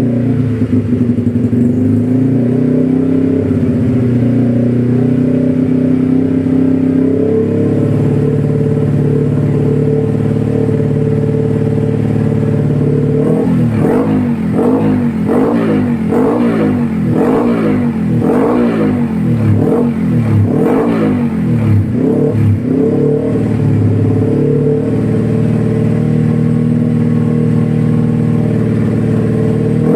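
Motorcycle engine running through an X1 Speed Pro One aftermarket exhaust, loud and steady at first. Near the middle it is revved up and down over and over, about once a second for some ten seconds, then settles back to a steady run.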